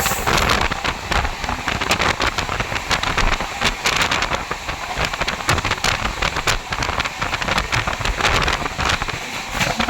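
Running noise of the Poorva Superfast Express at speed: a steady rush of wind and rolling noise, thick with short rattling clicks.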